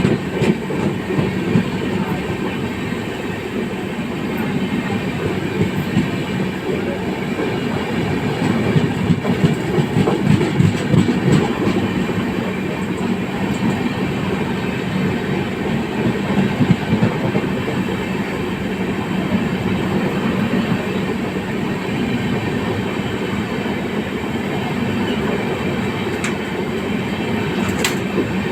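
Passenger express train rolling slowly past on the track, a steady rumble of coaches and wheels with a constant low hum underneath.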